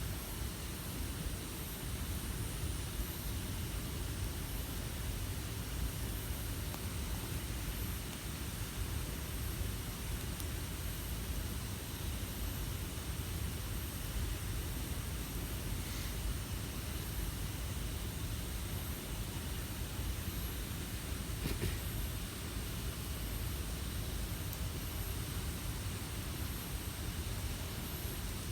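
Campfire burning with a steady low rumble and hiss, and two faint pops about halfway and three-quarters of the way through. A faint, evenly pulsing high-pitched chirr runs underneath.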